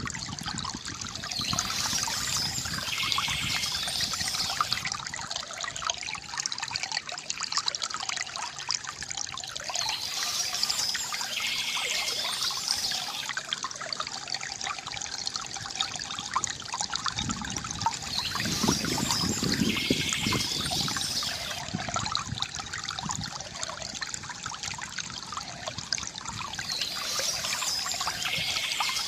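Water trickling and splashing steadily from a bamboo fountain spout, with a heavier, deeper gush around the middle.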